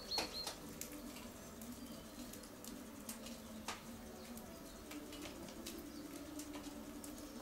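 Faint, low cooing of a bird, with a few light clicks scattered through.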